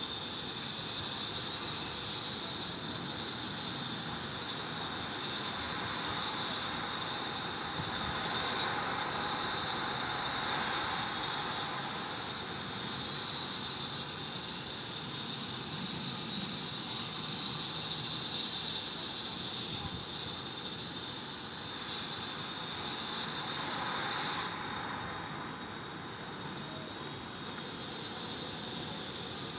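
Steady urban background noise: a low traffic rumble that swells twice, about eight to twelve seconds in and again near twenty-four seconds, with a steady high-pitched whine over it.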